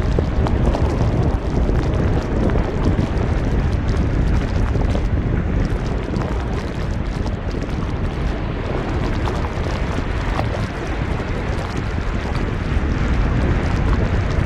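Strong wind in a snow squall buffeting the microphone: a dense, gusting rumble.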